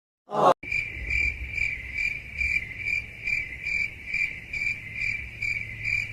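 A brief loud burst of sound, then a cricket chirping steadily, a high chirp repeating a little over twice a second over a low hum.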